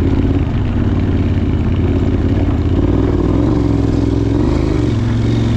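Adventure motorcycle engine running steadily at moderate revs, its pitch wavering slightly up and down as the throttle shifts.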